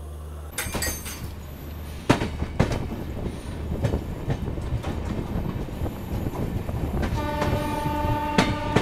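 Passenger train running, its wheels clicking and clattering irregularly over rail joints, heard from the open doorway of a moving coach. About seven seconds in, the locomotive's horn sounds one long steady note.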